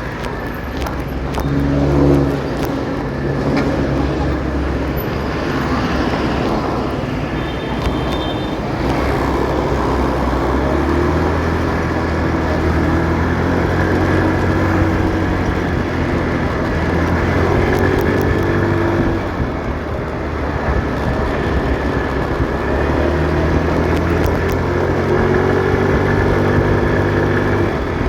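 Motorcycle engine running while riding in city traffic, its pitch rising and falling as the bike speeds up and slows down, with other vehicles around it. A short high beep sounds about eight seconds in.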